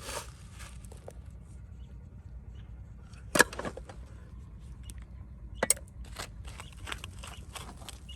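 Two sharp knocks about two seconds apart, followed by a run of lighter clicks, over a steady low rumble.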